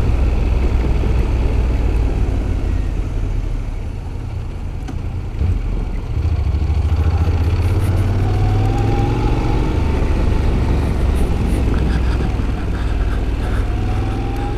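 Honda NC 750X motorcycle's 745 cc parallel-twin engine running at low city speed, heard with rumbling wind noise on the bike-mounted microphone. It eases off about four seconds in as the bike slows, then pulls again, with a faint rising whine twice in the second half.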